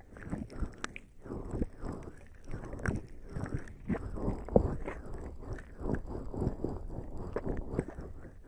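Bare skin slick with lubricating jelly rubbing and squelching against a microphone: short, wet, sticky strokes, several a second, at an irregular pace.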